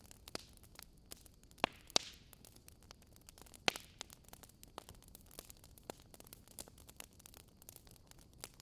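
Wood campfire crackling with scattered sharp pops, the loudest three coming between about one and a half and four seconds in, over a faint steady hiss.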